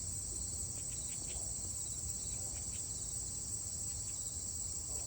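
Insects chirring in a steady, high-pitched chorus with a fine, even pulse, over a low rumble.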